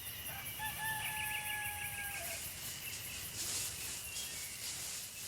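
Outdoor nature ambience: a bird gives one long, steady whistled note lasting nearly two seconds over high insect chirping, with the chirping pulsing on alone afterwards.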